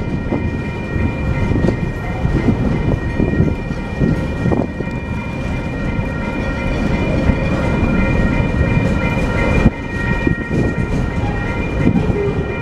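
TasRail freight train rolling past, with a steady rumble of wheels and wagons on the rails, scattered knocks and a steady high whine over it. A brief knock stands out about ten seconds in.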